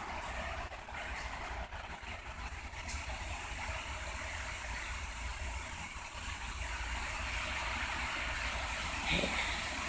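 Steady rushing of Hurricane Matthew's gusty wind, with a low rumble of wind buffeting the microphone. A brief louder sound comes about nine seconds in.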